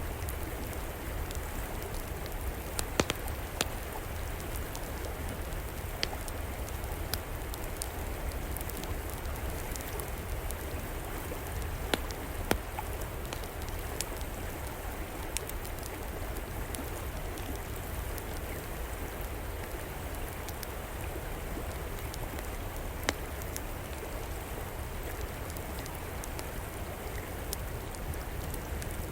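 River water flowing steadily, with a fire in an outdoor fireplace crackling over it: a handful of sharp pops stand out now and then, two close together near the middle.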